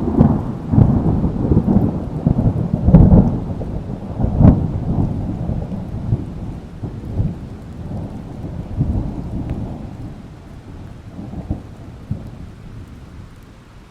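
Thunder rolling and rumbling over rain, loudest in the first five seconds with several heavy swells, then dying away toward the end.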